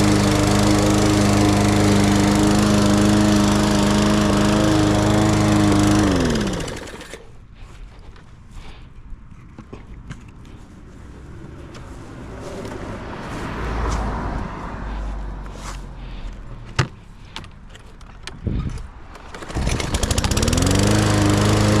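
Lawn mower engine running steadily, then shutting off about six seconds in, its pitch sinking as it winds down. A quieter stretch with a few scattered clicks and knocks follows, then near the end the engine starts again and its pitch rises back up to a steady run.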